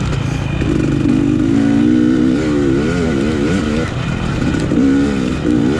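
Off-road motorcycle engine heard from the rider's point of view, revving up and down as the throttle is opened and closed, its pitch rising and falling repeatedly.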